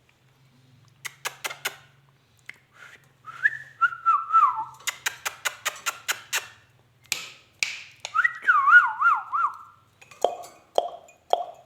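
Ringneck parrot whistling: two warbling whistles that slide downward, between quick runs of clicks and short chirps.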